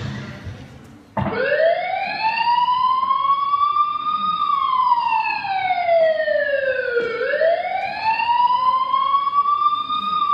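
A wailing siren, starting suddenly about a second in: one tone sweeping slowly up in pitch, down again, and up again, each rise or fall taking about three seconds.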